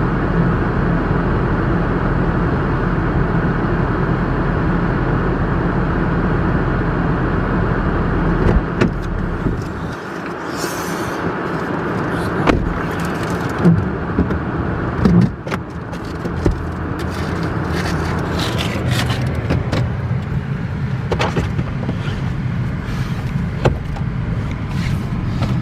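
Car driving on a snowy road heard from inside the cabin: a steady rush of road and engine noise. About nine seconds in the low hum drops away and several knocks and clicks follow, then the steady noise picks up again with more clicks.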